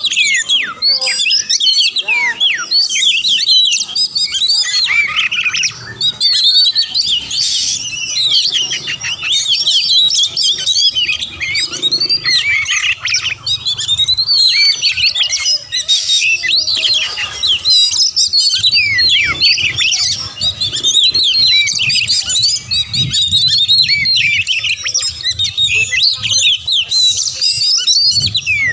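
Oriental magpie-robin (kacer) singing fast and without pause: a dense run of rapid high chirps, whistles and harsh notes.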